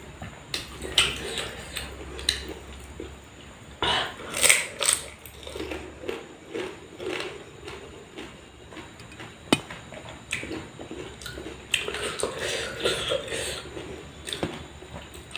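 Close-up eating sounds: a person biting and chewing food with irregular crunches and wet mouth sounds, and an occasional sharp clink of a utensil or plate.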